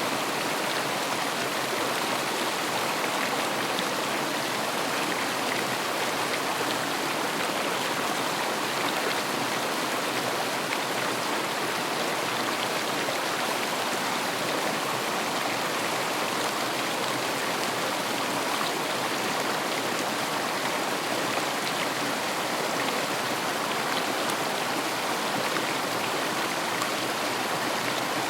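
River water rushing and babbling over its bed, a steady, even wash of sound.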